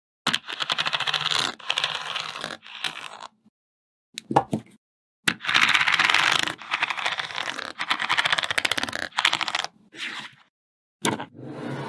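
Small magnetic balls clicking and rattling against one another in quick, dense runs of tiny clicks as they are snapped together and pulled apart, broken by several sudden silences.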